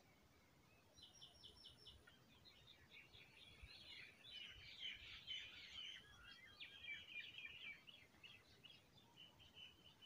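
Faint birdsong: a quick run of four or five repeated high notes about a second in, then a dense chattering of several birds calling over one another, loudest near the middle and thinning out towards the end.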